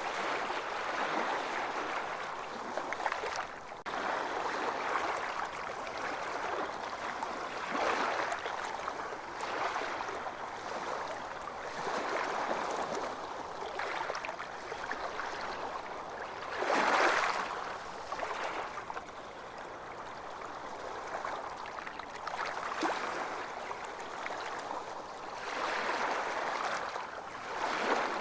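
Ocean surf washing on a beach: a continuous rush of water that swells and fades every few seconds, with one louder wave about two-thirds of the way through.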